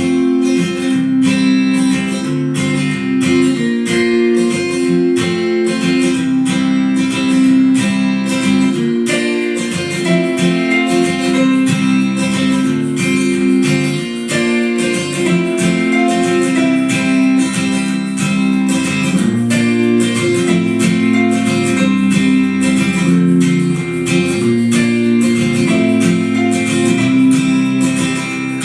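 Acoustic guitar music: chords strummed in a steady rhythm, changing every second or two.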